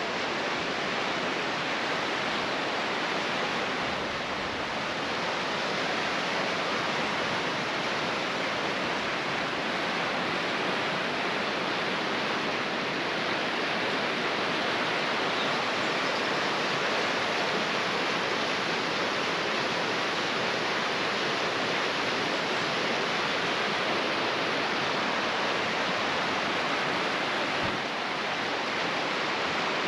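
Steady rush of flowing water, an even hiss that holds level throughout, dipping slightly near the end.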